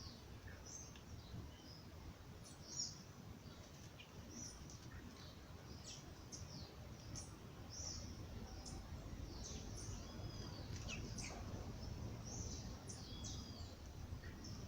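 Several birds chirping and calling, with quick, high, overlapping chirps and short whistled notes throughout, over a steady low background rumble.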